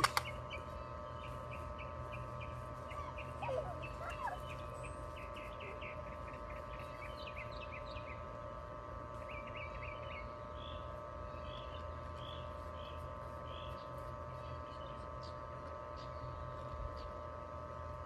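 Songbirds chirping and calling, with a steady hum underneath.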